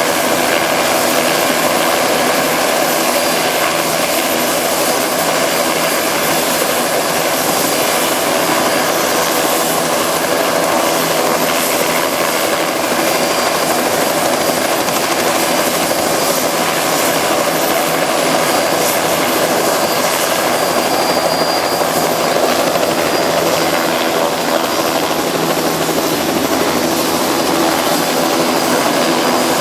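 Passenger helicopters running close by, with a loud, steady drone of rotors and engines that stays even throughout.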